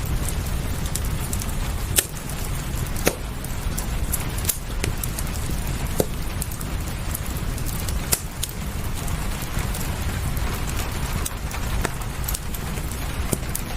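Wood fire crackling, with scattered sharp pops at irregular moments, over steady rain and a low rumble.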